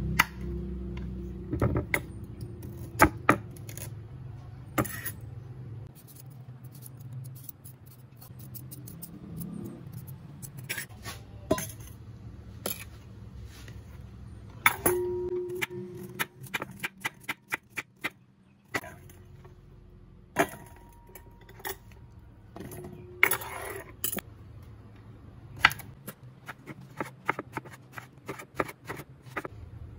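Irregular small clicks, taps and clinks of hard objects being handled, a few of them ringing briefly.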